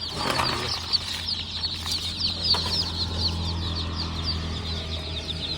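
A mass of chicks peeping continuously, many short, high cheeps overlapping one another, over a steady low hum.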